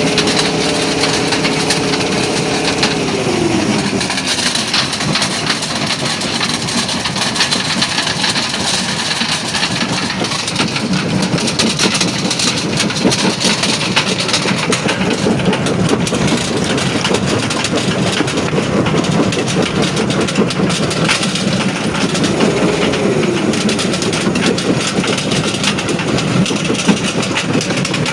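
Primary jaw crusher at a quarry crushing rock: a continuous loud clatter and grinding of stone, dense with small knocks. A steady machine hum drops in pitch and fades about three seconds in, and a short rise and fall of a machine note comes near the end.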